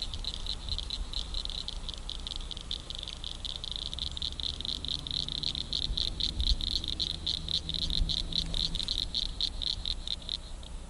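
Calling insect chorus: a rapid, even series of high-pitched chirps that stops shortly before the end. A low rumble sits underneath.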